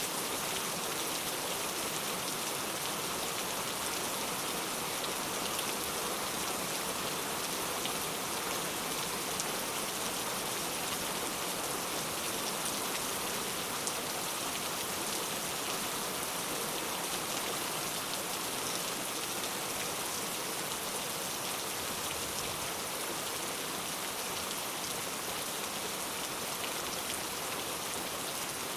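Heavy rain falling steadily, an even dense hiss of drops with no let-up.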